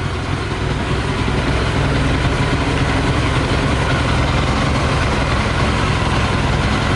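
Yamaha YZF 600R's inline-four engine idling steadily while running on 40% whisky instead of petrol; it gets slightly louder about a second in.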